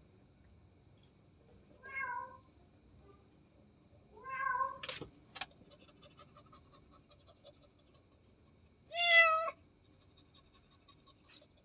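Domestic cat meowing three times, a short call, then a longer rising one, then the loudest near the end. Two sharp clicks come just after the second meow.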